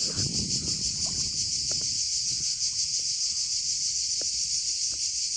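Cicadas calling in a dense chorus: a steady, shrill, high buzz with a fast pulsing texture. A brief low rumble sounds in the first second.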